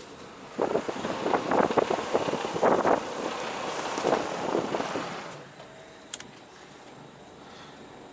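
Gusts of wind buffeting the microphone in a blizzard, a rough, crackling rush lasting about five seconds that then dies away.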